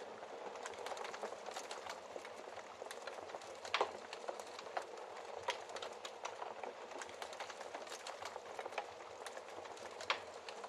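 Wood fire crackling in a fireplace: a steady hiss with frequent small pops, a louder pop about four seconds in and another near the end.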